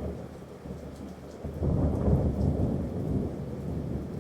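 Thunderstorm: a low rolling rumble of thunder over steady rain. The rumble swells about a second and a half in.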